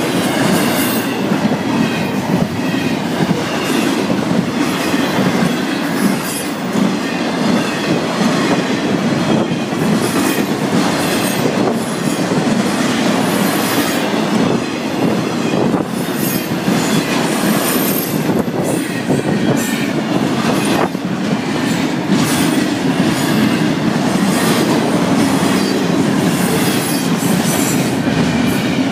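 Florida East Coast Railway freight train's container cars rolling past: a steady loud rumble of steel wheels on the rails, with clicks over rail joints and a faint high wheel squeal.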